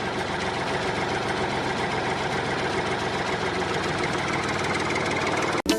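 A motor running steadily with a fast, even chatter, cutting off abruptly near the end.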